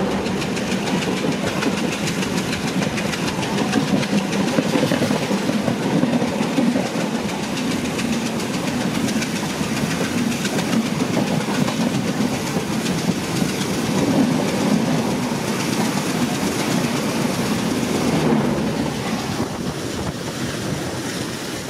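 Coaches of an express train running past on the adjacent track, heard from a moving train: a continuous rumble with wheels clattering over the rail joints. The sound eases off near the end as the last coach draws away.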